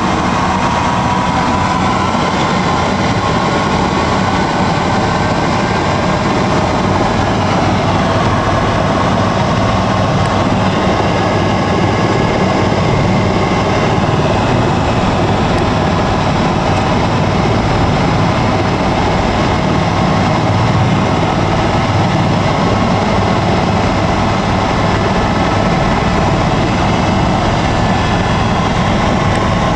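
Helicopter turbine and rotor noise, loud and steady throughout.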